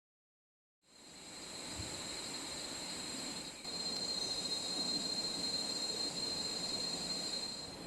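Flowing river water with a steady high-pitched ringing over it, fading in about a second in and growing louder about halfway through.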